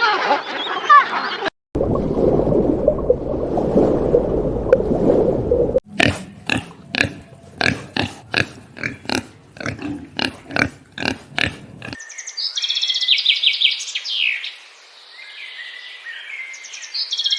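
A run of separate animal-sound clips joined by abrupt cuts. Short high calls give way to low, rough grunting. Then comes a series of sharp clicks about twice a second, and finally high, rapid chirping trills.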